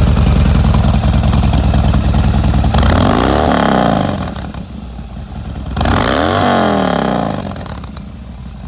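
Harley-Davidson Dyna Street Bob's 103 cubic inch V-twin, through a Bassani RR3 exhaust, running at a fast idle, then blipped twice, each rev rising and falling back to idle.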